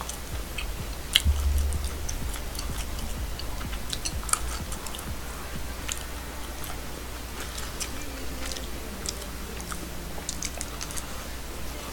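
A person chewing food close to the microphone, with scattered small clicks and taps, over a steady low hum.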